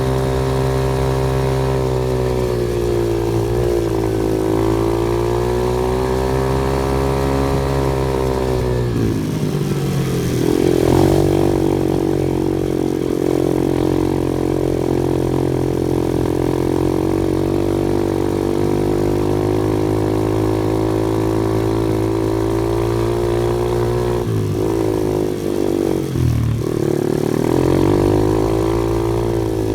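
Off-road vehicle engine running continuously, its pitch rising and falling as the throttle and load change: a dip and recovery about four seconds in, a shift near ten seconds, and another dip and climb near the end.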